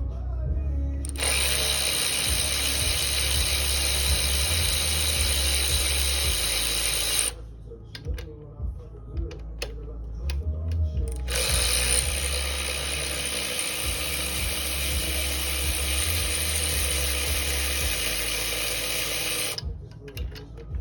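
A power tool runs in two long stretches, about six and eight seconds each, with a strong high hiss, separated by a pause of a few seconds.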